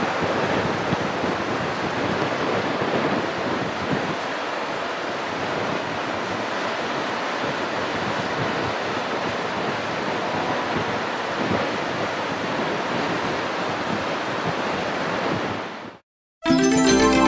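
Rough surf breaking and churning on a beach in strong wind, with wind on the microphone, as a steady roar. It fades out near the end, and after a brief silence electronic music begins.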